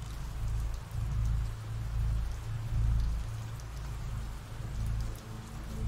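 Steady rain falling, a continuous patter, with a low rumble underneath that swells and fades about once a second.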